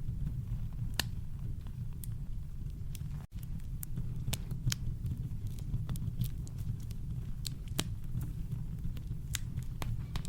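Campfire crackling: irregular sharp pops and snaps of burning wood over a steady deep rumble of brown noise. The sound drops out for an instant about three seconds in.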